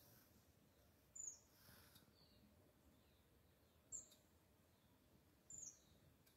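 Faint, short high-pitched bird chirps, three of them, each falling slightly in pitch.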